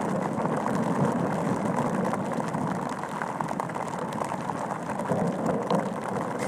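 Heavy rain on a Gore-Tex bivy cover, heard from inside the sealed bivy: a dense, steady hiss of many small drop impacts.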